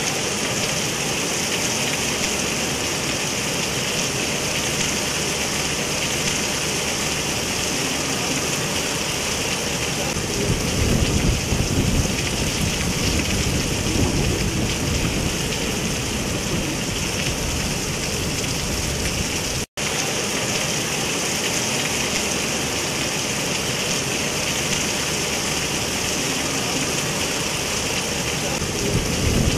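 Heavy rain falling hard on pavement and parked cars, a steady dense hiss. About ten seconds in, a deeper rumble swells under it for several seconds, and the sound cuts out for an instant about two-thirds of the way through.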